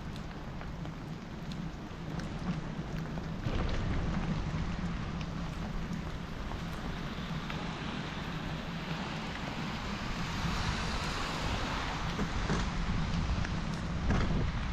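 Heavy rain falling steadily in a forest, with scattered drop hits close by and a low rumble underneath. It gets louder about three and a half seconds in.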